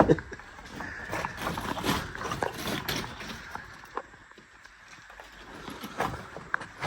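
Irregular light knocks, clicks and scrapes, with a sharper knock right at the start and a couple more about six seconds in.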